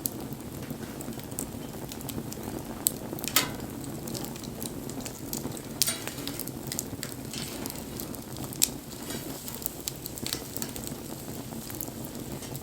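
Wood bonfire burning, crackling over a steady hiss, with a few sharp pops scattered through.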